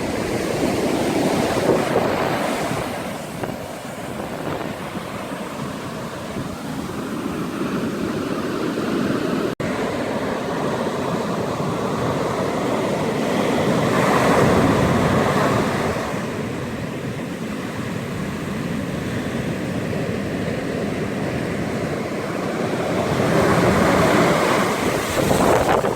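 Ocean surf breaking and washing on a beach, the roar swelling and falling back in a few large surges, with wind buffeting the microphone.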